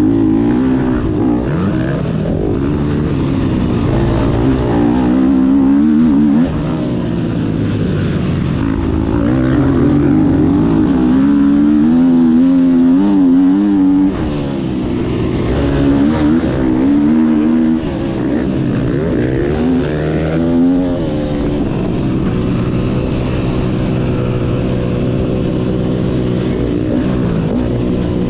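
Motocross bike engine under hard throttle, its pitch rising and falling again and again. The loudness drops sharply about 6, 14 and 18 seconds in, as the throttle is chopped or a gear is changed.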